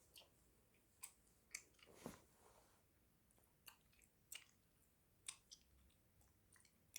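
Gum being chewed close to the microphone: faint, soft clicks and smacks at an irregular pace, about eight in all.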